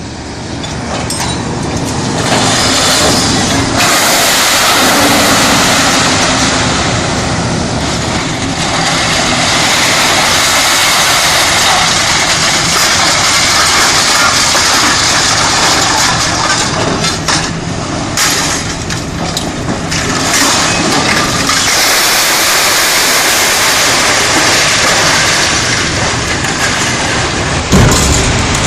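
Liebherr R974C Litronic high-rise material handler working: its 8-cylinder diesel engine running under load, with a loud steady mechanical din and a low hum. The din builds over the first couple of seconds and dips briefly a few times.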